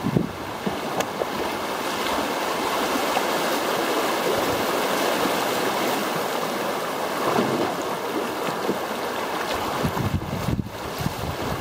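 Rushing water of river rapids around a canoe, a steady hiss, with some low, uneven bumps near the end.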